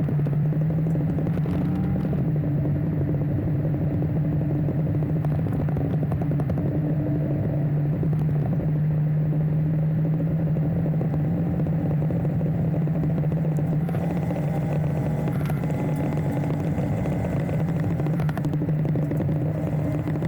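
Enduro motorcycle engine running at a steady, nearly constant pitch while riding, with light clatter; the tone shifts slightly about two-thirds of the way through.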